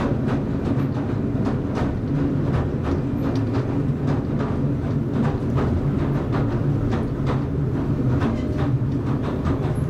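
Southend Pier Railway train running along the pier, heard from inside the carriage: a steady low hum with frequent light clicks from the wheels on the track.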